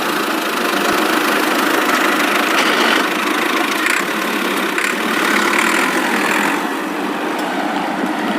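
Homemade mini tractor's small engine running steadily.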